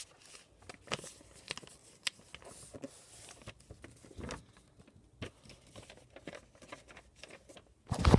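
A sheet of paper being folded and creased by hand, with scattered crinkles and rustles, then a louder thump near the end.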